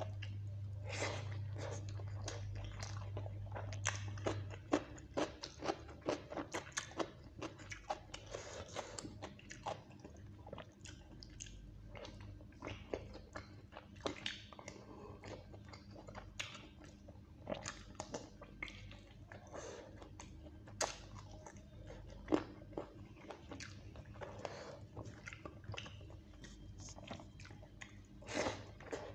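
Close-miked chewing and lip-smacking as a mouthful of rice and chicken curry is eaten by hand, many short wet clicks and smacks. A low hum underneath stops about four and a half seconds in.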